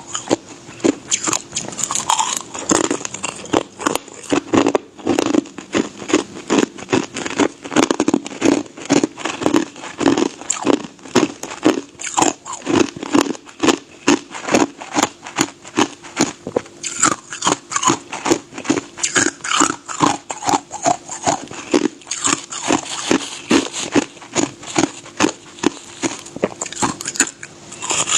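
A person biting and chewing ice close to the microphone: a steady run of crisp crunches, about two to three chews a second.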